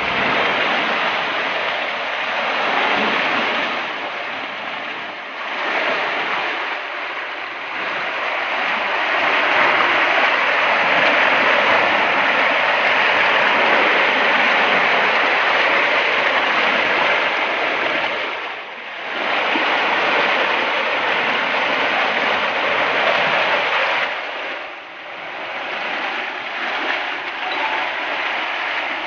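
Heavy floodwater rushing in a steady wash of noise, dipping briefly twice in the later part.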